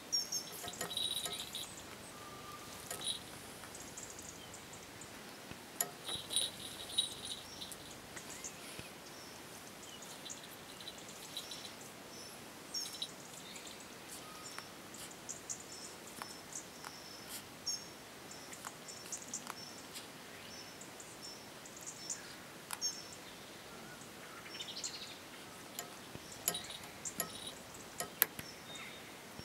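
Short, high bird chirps come and go in small clusters, mixed with scattered sharp clicks.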